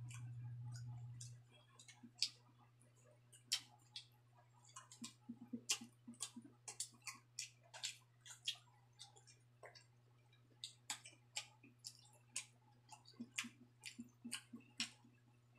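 Close-up eating sounds of a person chewing rice and pork adobo: irregular wet mouth clicks and lip smacks, several a second, with a brief pause about two-thirds of the way through. A steady low hum sits underneath, louder for about the first second.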